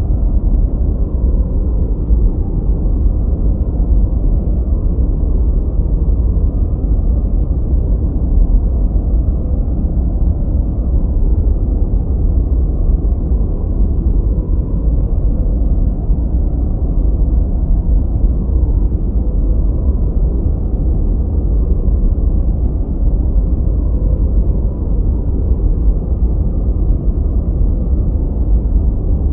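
Steady noise track sold as white noise for studying, muffled and deep: most of its energy sits low and it fades out above the midrange, closer to brown noise than true white noise. It holds even throughout, with no events.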